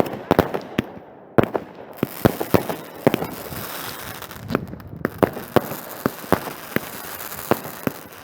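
Fireworks going off: a rapid, irregular run of sharp bangs and pops over a steady crackle.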